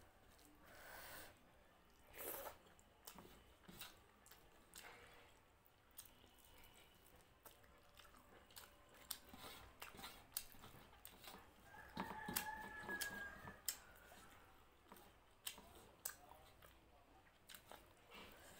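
Close-up eating sounds: quiet chewing and mouth clicks, with fingers mixing rice and curry on a metal plate making scattered small clicks. About twelve seconds in, a brief pitched sound lasts about a second and a half.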